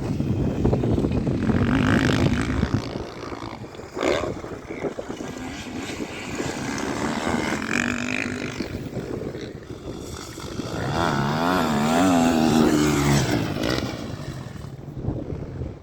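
Motocross motorcycle engines revving and passing. About two-thirds of the way in, an engine's revs rise and fall quickly several times in a row, the loudest part. There is a sharp knock about four seconds in.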